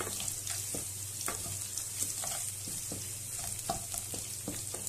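Chopped ginger, garlic and dried red chillies sizzling gently in a little oil in a metal kadai: a tempering being sautéed on a slow flame. A wooden spatula scrapes and stirs the pan in irregular strokes over a steady sizzle.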